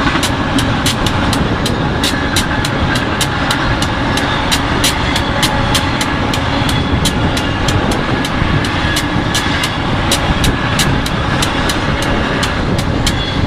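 Freight train passing at speed: a steady rumble of wheels on rail, with a rapid, slightly uneven run of sharp clicks, about three to four a second.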